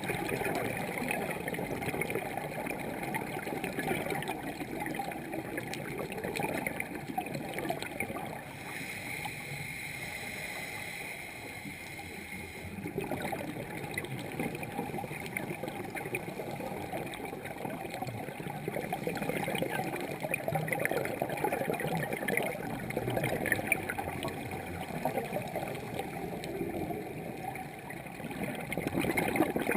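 Underwater bubbling and gurgling from a scuba diver's exhaled air, crackling and swelling in waves, with a quieter stretch of steady hiss about a third of the way in.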